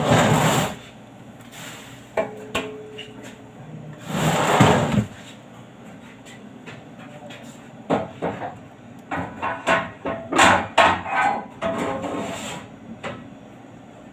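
Two loud rushing noises, each under a second long, then a run of sharp knocks and clatter from about eight seconds in, like work being done by hand.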